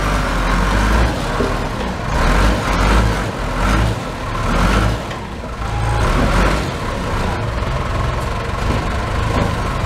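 A large truck engine running, rising and falling in loudness several times through the first part, then steadier.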